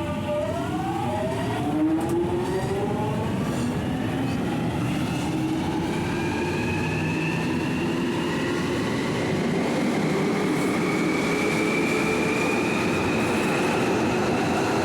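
London Underground 1996 Stock Jubilee line train pulling away: its traction motor and inverter whine, several tones together, rises steadily in pitch throughout, over the rumble of the wheels and running gear.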